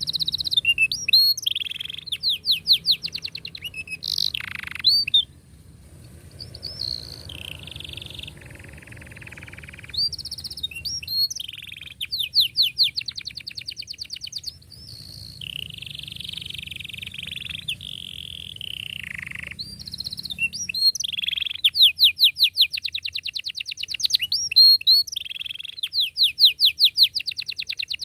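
Domestic canary singing a long song: fast rolling trills of tightly repeated notes, up-sweeping chirps and held buzzy tones, in phrases separated by short pauses. A faint low hum lies underneath.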